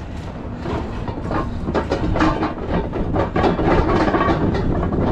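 Scrap metal clattering and banging in quick, irregular knocks over a low engine rumble, growing louder about two seconds in.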